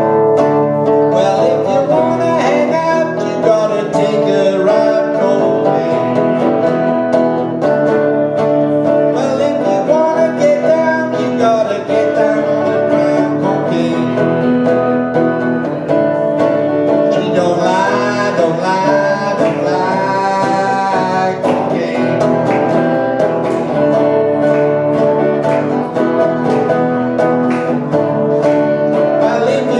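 Live acoustic music: guitar and other plucked strings played at a steady level, with a bending melody line above them.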